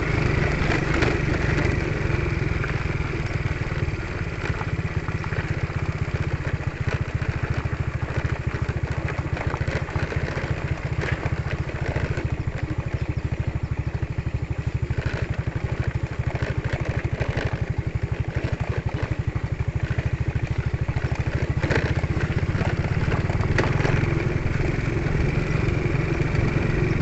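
Motorcycle engine running steadily while riding over a rough, broken road, with a few short knocks and rattles from the bumps.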